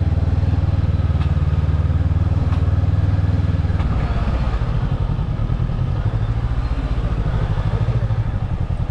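Motorbike engine running while riding, loud and low. About four seconds in, its steady note gives way to a pulsing beat.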